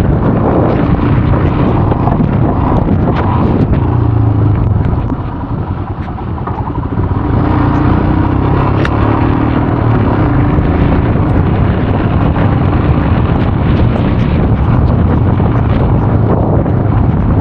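Royal Enfield Himalayan's single-cylinder engine running under way as the motorcycle is ridden. It eases off briefly about five seconds in, then picks up again.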